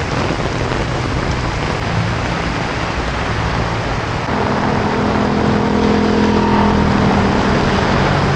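Torrential rain pouring down on a city street, with car traffic running through it. About four seconds in, a vehicle's steady engine hum joins in and the sound gets a little louder.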